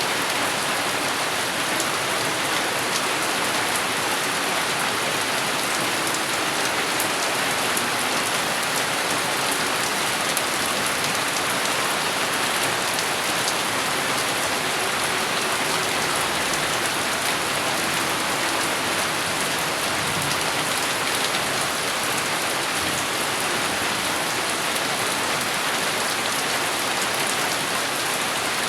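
Steady heavy rain falling and pattering on surfaces, an even hiss of drops with no thunder heard.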